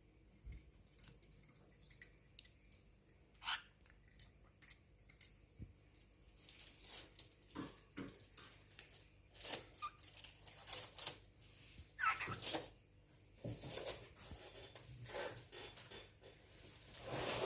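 Scratchy rustling, tearing and clicking noises in short, irregular bursts that grow busier about a third of the way in.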